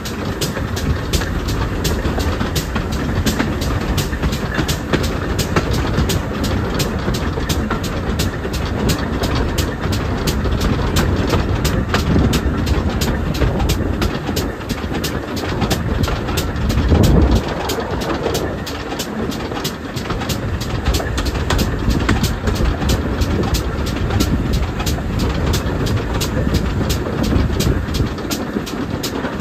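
Steam train hauled by a GWR pannier tank locomotive running along the line: a steady low rumble with a fast, even rhythm of clicks. A louder low rush swells up a little past halfway.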